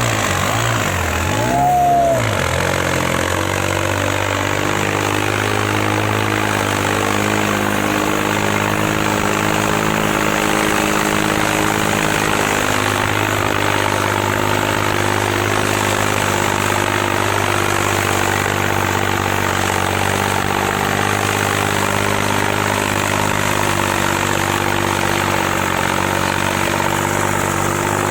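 New Holland 3630 tractor's diesel engine, with a few quick rises and falls in pitch in the first two seconds, then running at steady, unchanging revs.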